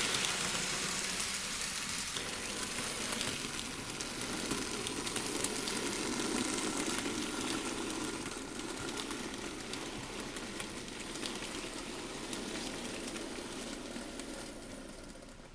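N-gauge model train running on the layout track: a steady motor and wheel rumble with light clicks from the rail joints, fading gradually as the train moves away.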